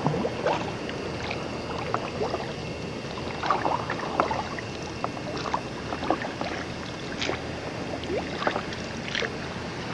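Water sloshing and splashing around a kayak moving through calm, shallow sea water: irregular small splashes over a steady hiss.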